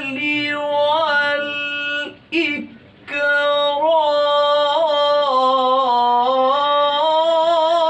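A young boy's voice chanting a Quranic verse in melodic tajweed style, drawing out long ornamented vowels. The first held phrase breaks off about two seconds in for a quick breath, then a second long wavering phrase follows.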